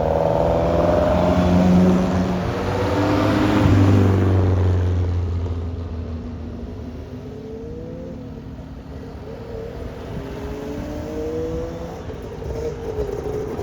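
Classic car engines pulling away one after another. One is loud and accelerating in the first five seconds and then fades; fainter engines rise and fall in pitch after it.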